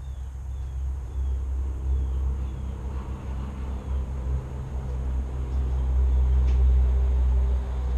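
A loud low rumble that swells and dips, loudest a little before the end, with a few faint, short high chirps falling in pitch during the first couple of seconds.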